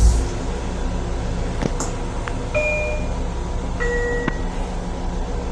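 Two-note descending electronic chime from an M7 railcar's onboard signal system, one tone about two and a half seconds in and a lower one just over a second later, over the car's steady ventilation and electrical hum. A few sharp clicks sound around the chime.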